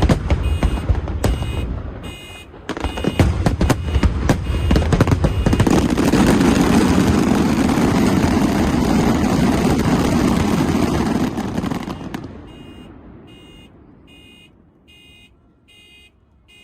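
Aerial fireworks bursting in rapid succession with many sharp cracks and bangs. About six seconds in they merge into a dense continuous rush, as in a finale, which cuts off suddenly near twelve seconds. After that only a faint high beep repeats about once a second.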